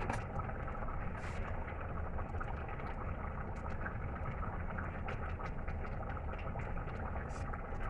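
Pot of stew chicken simmering on the stove: a steady bubbling with small scattered pops over a low rumble.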